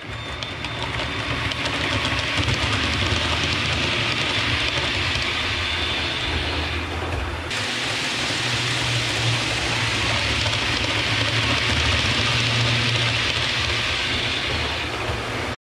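Steady rumble and hiss of a train running on rails, with a low hum underneath, cutting off suddenly near the end.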